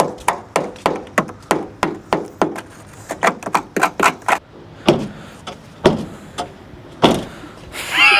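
Something repeatedly striking the car's body panels. A quick run of sharp knocks, about two or three a second, for the first four seconds or so, then three heavier thumps about a second apart.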